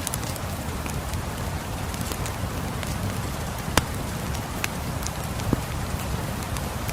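Steady rain hissing, with sharp pops and crackles from a wood fire in a fireplace, the loudest pop a little past halfway.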